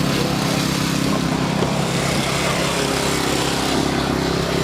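Fire engine's motor running steadily at a constant speed.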